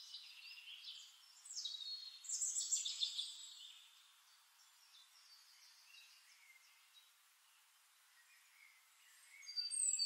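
Small birds chirping and twittering in quick, high notes, loudest about two to three seconds in, dying away through the middle and starting again near the end.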